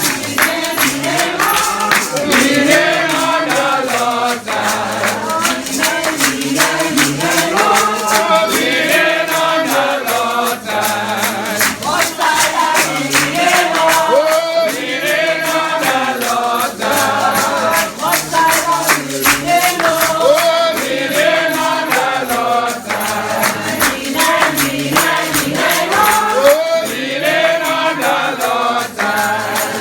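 A church congregation singing a hymn together, the voices rising and falling, over a steady beat of rhythmic percussion.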